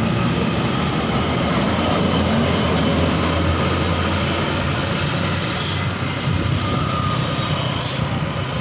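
Heavily loaded dump truck passing close on a downhill bend, its diesel engine and drivetrain making a steady loud rumble. Two brief hisses come near the middle and near the end.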